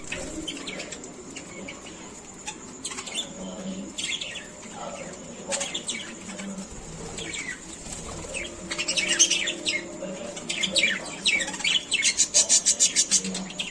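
Pet love birds chirping over and over, with a fast run of chirps near the end, and wings flapping.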